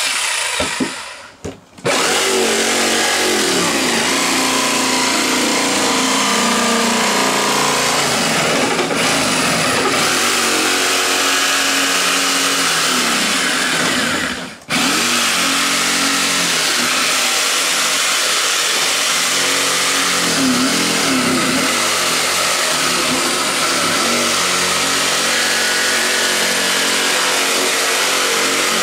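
Electric jigsaw cutting a circular hole in a plastic camping-cooler lid. It runs steadily under load after a brief start and stop at the beginning, and pauses for a moment about halfway through.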